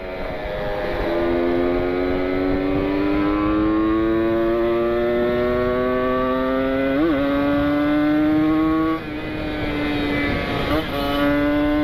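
Kawasaki Ninja 150 RR single-cylinder two-stroke engine at full throttle, its pitch climbing steadily through a gear. About nine seconds in it drops with an upshift, then starts climbing again.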